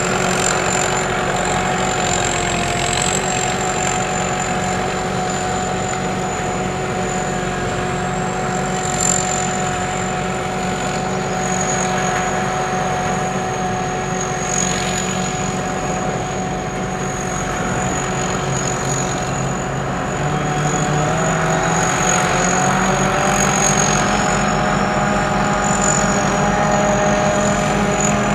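Sakpattana SS-200 mini combine harvester running steadily, its engine and machinery giving several steady whining tones; about two-thirds of the way through the engine note changes and new tones join in.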